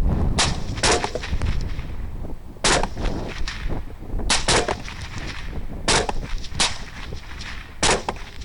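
Suppressed rifle shots fired at running hogs at night: about eight sharp cracks at uneven spacing, two of them in quick succession near the middle. A steady low wind rumble lies on the microphone underneath.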